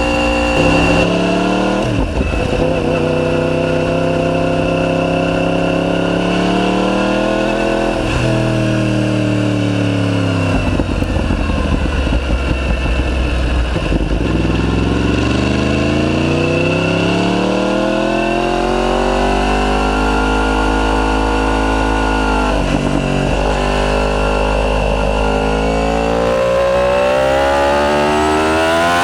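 Yamaha YZF-R1's crossplane inline-four running through a decatted Akrapovic full titanium exhaust while riding. The revs climb and fall repeatedly, with sudden drops at gear changes and slower falls when easing off.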